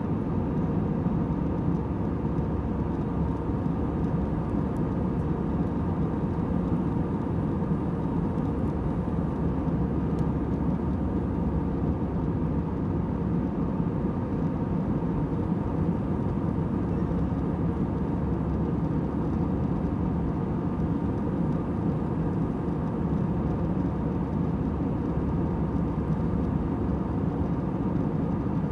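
Airliner cabin noise in cruise flight: a steady, monotonous hum and rush of the engines and airflow, strongest low down, with faint steady tones on top.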